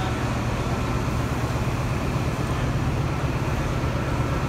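Steady low rumble of a train, with a faint steady hum above it and no sudden sounds.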